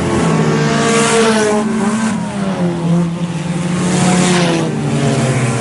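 Several IMCA Sport Compact race cars' four-cylinder engines revving in a pack, their notes rising and falling together. A swell of noise comes as cars pass close, about a second in and again near four seconds.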